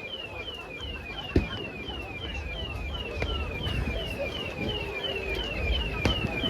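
An electronic alarm sounding a falling whoop that repeats evenly, about three times a second, with a few sharp firework bangs going off in between over a low murmur of a crowd.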